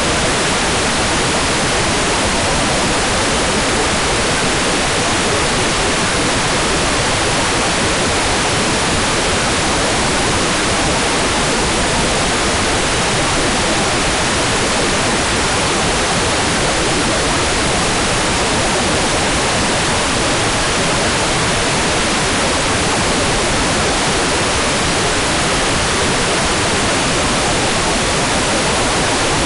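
Hairdryer running steadily on one setting: an even, unbroken rushing hiss of air.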